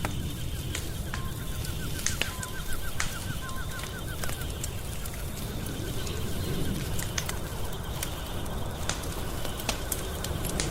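Wood fire crackling in a fireplace: irregular sharp pops and snaps over a low steady rumble of burning. For the first few seconds a faint, fast run of chirps also sounds.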